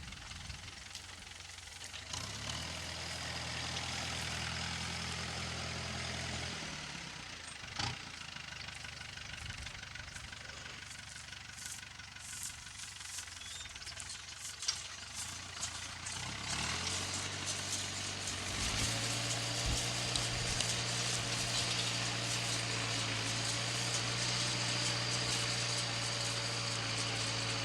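Farm tractor diesel engine running in a straw field. It is heard more strongly for a few seconds early on, fades, then comes closer and runs steadily louder from about two-thirds of the way in.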